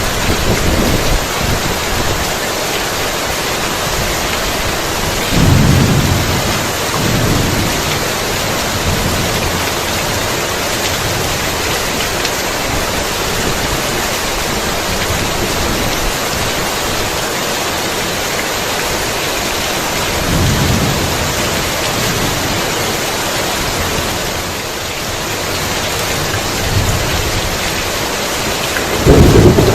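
Heavy rain falling steadily, with rolls of thunder rumbling low about five seconds in and again about twenty seconds in. A louder thunder roll breaks just before the end.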